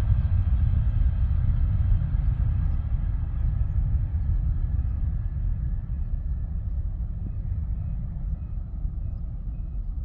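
Jet airliner engines rumbling deep and steady, slowly fading as the aircraft moves away.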